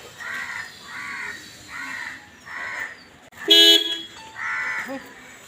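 A crow cawing over and over, a call about every half second, and one short, loud car-horn toot about three and a half seconds in.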